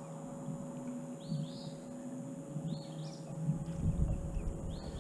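A bird calling, a short high note repeated about three times, over a faint steady low hum.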